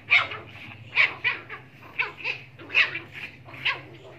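Puppies yapping in short, high-pitched barks, about eight in quick succession, while play-fighting.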